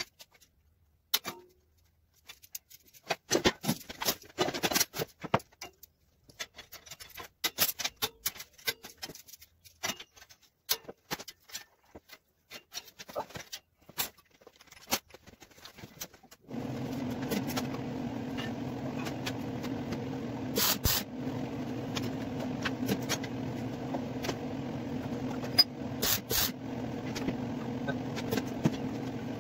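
Scattered clicks and knocks of metal parts being handled and clamped. A bit over halfway a steady machine hum starts and runs on, with a few sharper knocks over it.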